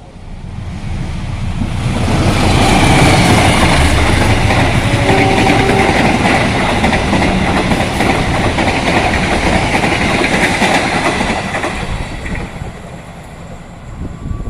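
Train passing at speed, its wheels clattering over the rails. The sound builds over about two seconds, stays loud for about ten seconds, then fades away.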